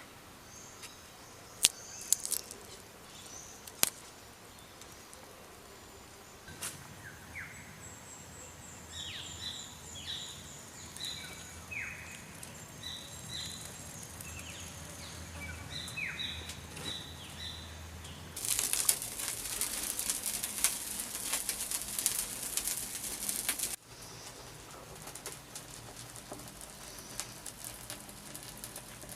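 Birds calling outdoors in a run of short, high, falling chirps. Then a loud crackling hiss starts about two-thirds of the way in, lasts about five seconds and cuts off suddenly.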